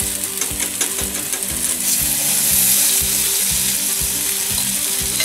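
Paneer and vegetable tikka skewers sizzling in hot oil on a tava: a steady frying hiss with scattered crackles, swelling a little about two seconds in.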